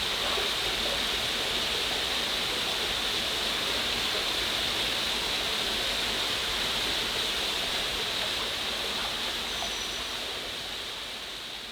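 Steady rush of a waterfall's falling water, a continuous hiss that fades out near the end.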